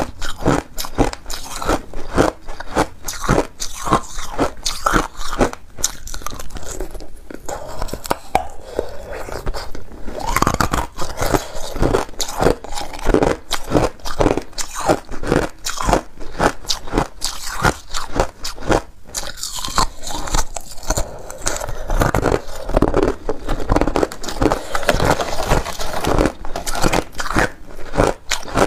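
A person biting and chewing ice close to the microphone: a dense, continuous run of sharp crunches and cracks as the ice breaks between the teeth.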